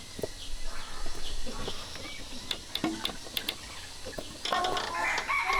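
Scattered light clicks and knocks, then, a little over four seconds in, an infant starting to fuss with short whimpering cries.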